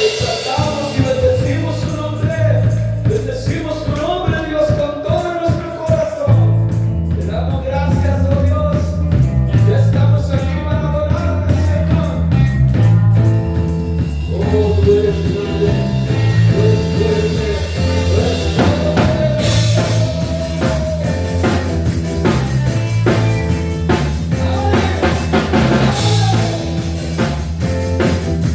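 Band music with drum kit and bass under a wavering melody line, played as a worship song. The cymbals brighten about two-thirds of the way through.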